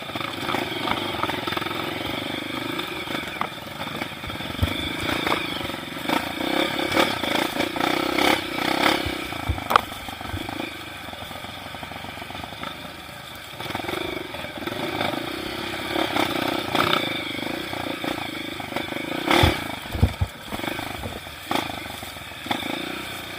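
Trail motorcycle engine running with revs rising and falling, with scattered knocks and rattles from the bike over rough ground.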